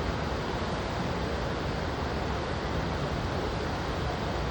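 Steady rushing noise, even and unbroken, with no bangs or crackles.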